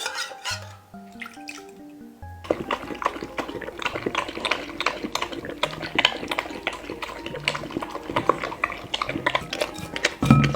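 Background music with a simple stepped melody. From about two seconds in, rapid wet clicking and lapping of a cat's tongue licking an empty food dish clean runs under the music.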